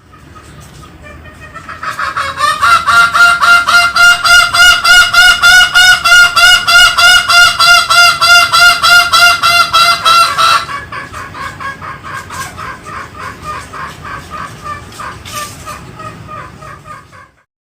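Green junglefowl calling: a fast, even run of honking notes, about three or four a second. The run is loud for about eight seconds, then suddenly drops to a quieter series of the same notes that goes on until it stops shortly before the end.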